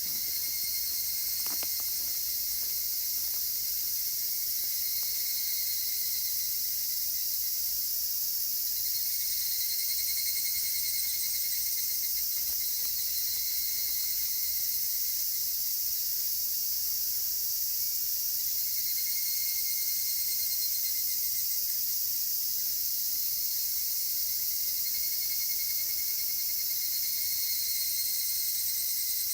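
Dense, steady chorus of cicadas, over which evening cicadas (higurashi) sing ringing trilled phrases that swell and fade about every ten seconds. A single faint crackle from the campfire comes about a second and a half in.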